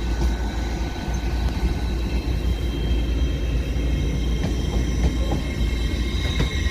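Class 801 Azuma electric train at the platform: a steady low rumble with thin, high, steady whining tones over it, growing stronger toward the end.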